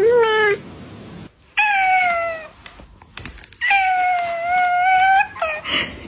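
Cat meowing: about four drawn-out meows, the longest lasting about a second and a half, with abrupt changes in the background between them.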